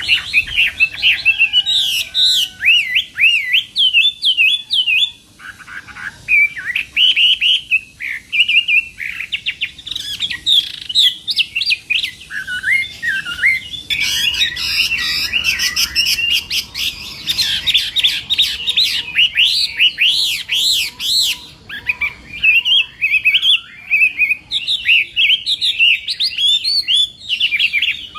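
Chinese hwamei singing a long run of rapid, varied whistled phrases, with a few short breaks between bursts.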